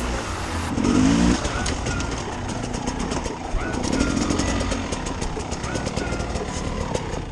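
Enduro motorcycle engine running during a trail ride, heard under the steady rush and rattle of riding, with rapid ticks throughout.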